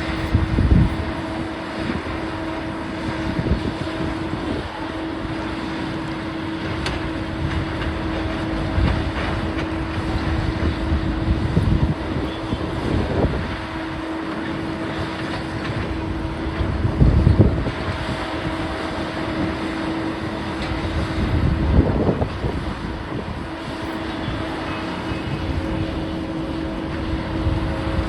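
Heavy demolition machinery running: a steady engine hum with a constant noisy rumble, swelling into louder low rumbles several times.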